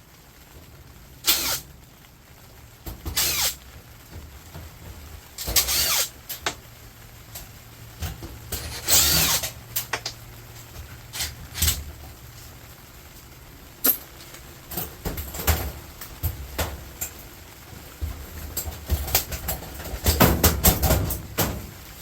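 Irregular knocks, scrapes and rustling as scrap and appliances are handled and moved, with a denser clatter near the end.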